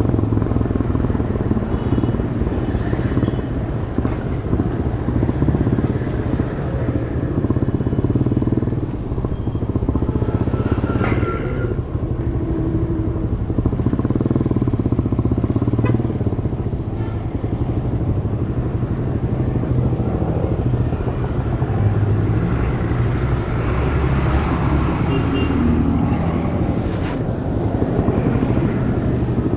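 Demak DTM 150 motorcycle engine running through its stock exhaust while riding, the engine note shifting up and down with the throttle.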